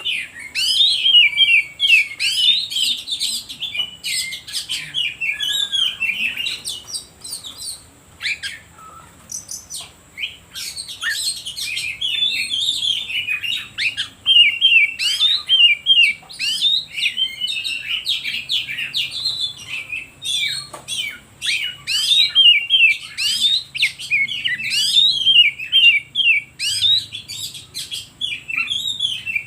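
Oriental magpie-robin (kacer) in full, continuous song: a rapid, varied stream of loud whistles and chirps, thinning out for a few seconds about a third of the way through before resuming.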